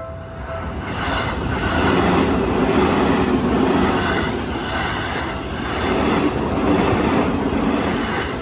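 Electric commuter train passing over a level crossing: a loud rumble and rattle of wheels on rail that swells, dips a little midway and swells again. The crossing's warning bell rings briefly at the start before the train drowns it out.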